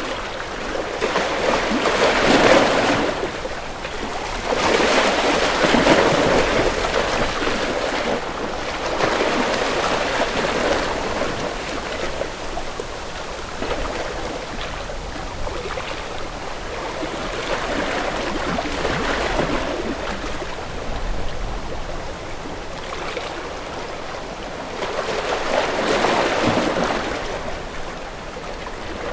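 Sea waves washing in slow surges, a rush of water that swells and ebbs every few seconds.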